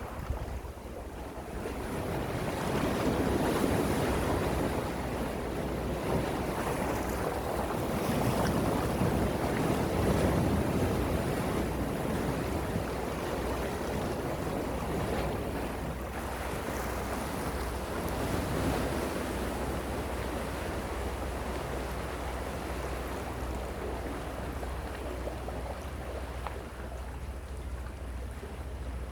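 Gentle sea waves washing in and drawing back, a steady rushing that swells twice in the first half and eases toward the end.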